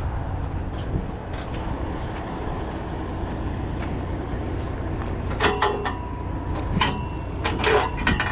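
Heavy diesel truck engine idling with a steady low rumble, with a few sharp metallic knocks and rattles in the second half.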